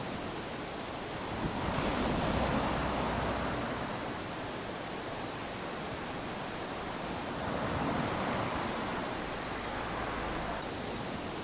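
Small waves lapping onto a sandy shore: a steady wash of surf with two gentle swells, one about two seconds in and another past the middle, each fading back as the water runs up the sand.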